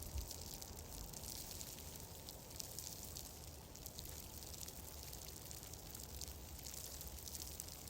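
Soft fireplace crackle: a steady high hiss dotted with many fine ticks and pops, over a low rumble.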